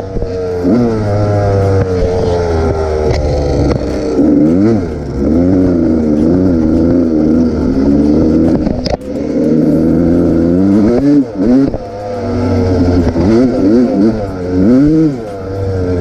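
Motorcycle engine revving up and down again and again, its pitch rising and falling every second or two, with a sharp click about halfway through.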